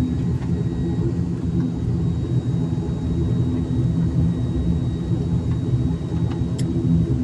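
Airliner engines droning steadily, heard inside the cabin before takeoff: a continuous low rumble with a faint steady high whine over it.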